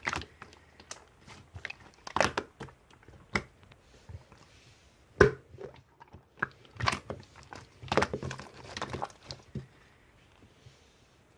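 Irregular crunches and clicks in short clusters, with a sharp loud one about five seconds in, stopping about two seconds before the end.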